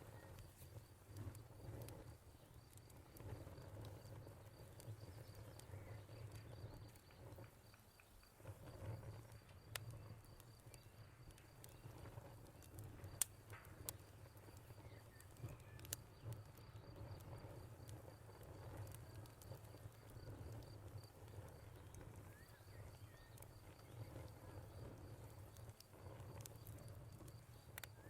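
Wood fire crackling softly, with a few sharp pops standing out against a low, steady background.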